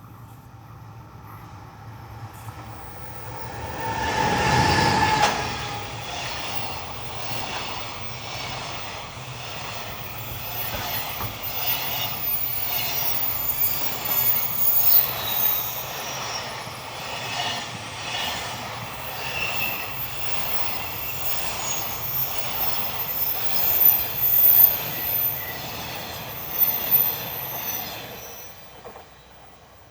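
A freight train passing close by. There is a loud surge about four seconds in as the locomotive goes by, then a long string of wagons rolls past with a steady clickety-clack over the rail joints and a high, thin wheel squeal. The sound dies away shortly before the end.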